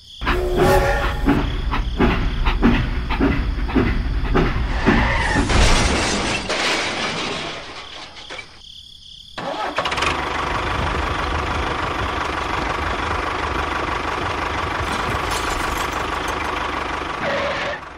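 Tractor engine sound. It runs rough with a fast run of knocks for the first several seconds, drops away briefly about eight seconds in, then runs steadily with a constant whine.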